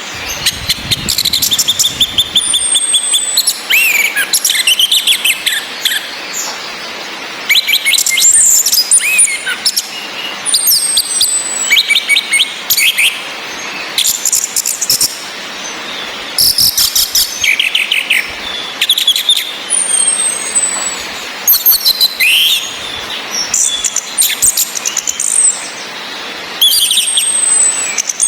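Orange-headed thrushes singing and calling in short repeated phrases of rapid high trills and sliding whistles, over a steady hiss of rain.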